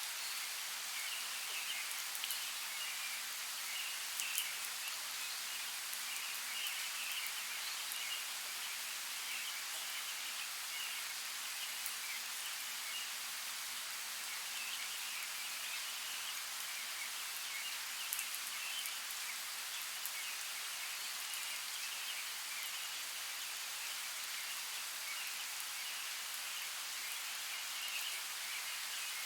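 Forest creek: a steady hiss of flowing water, with faint high-pitched chirping that comes and goes and a few light clicks.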